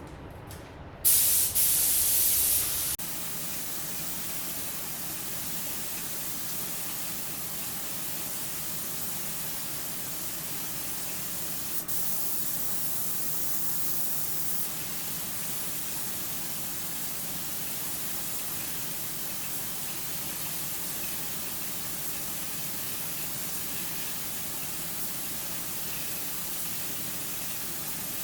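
Steady hiss of compressed air from a paint spray gun, with a louder blast lasting about two seconds, beginning about a second in.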